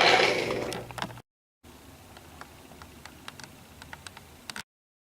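Wooden toy train cars clattering and clicking as they are pushed together, for about a second. It then cuts out, giving way to a faint hum with a few light ticks.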